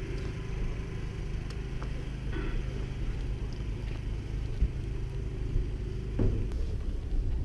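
Renault Clio Cup race car's engine running steadily at low revs as the car rolls slowly along, a low, even drone.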